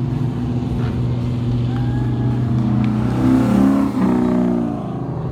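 Old car engines running steadily at low speed, with a second engine revving up and easing off about three seconds in.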